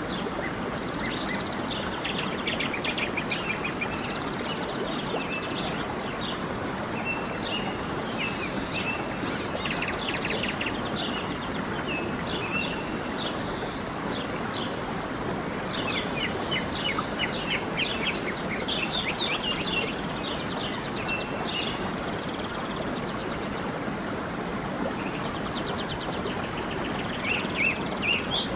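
Steady rushing of a stream, with small birds chirping and singing quick trills over it, in clusters that come and go.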